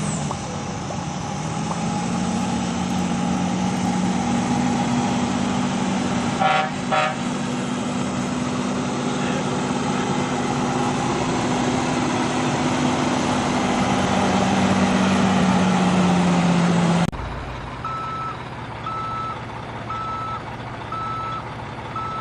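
A vehicle engine running steadily with a low hum, and two short horn toots about six and a half seconds in. It cuts off abruptly near the end, and a high beep then repeats about once a second, like reversing beeps.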